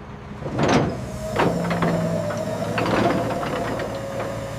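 Steady mechanical hum from the recovery truck and its equipment, with a few sharp metal knocks as the winched load is secured.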